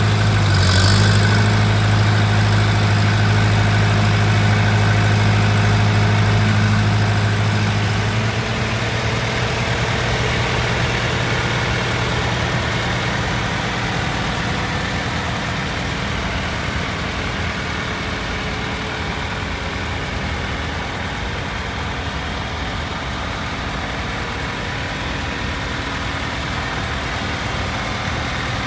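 Antique farm tractor engine running steadily with a strong low hum, which drops in level about eight seconds in. A brief hiss comes about a second in.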